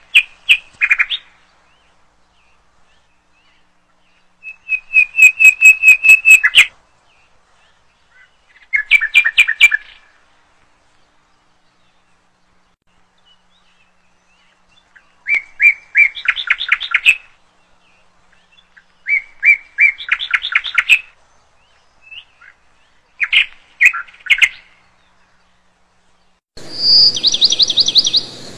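A bird singing in short phrases of rapid repeated chirps, one phrase every few seconds with silence between. Near the end a higher, faster trill comes in with a faint hiss behind it.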